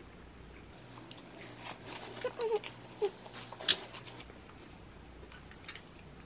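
Close-up eating sounds of a person chewing a perilla-leaf wrap of sliced duck meat. There are a few sharp clicks, the loudest a little past the middle, and a couple of brief murmurs.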